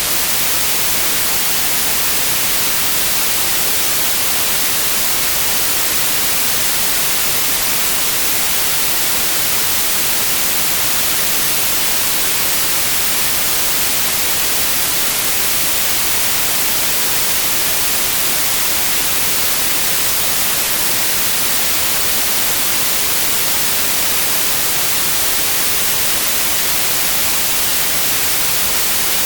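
Continuous white noise: a steady, even hiss, brightest in the treble, with no change in level.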